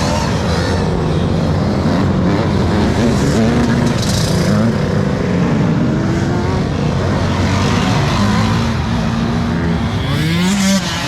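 Dirt bike engine revving up and down as it is ridden, its pitch rising and falling repeatedly, with a sharp rev climbing near the end.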